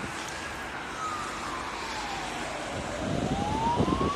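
Emergency-service siren on a fire-rescue vehicle, in a slow wail: the pitch falls for about three seconds and then starts rising again. A rough rumbling noise comes in under it about three seconds in.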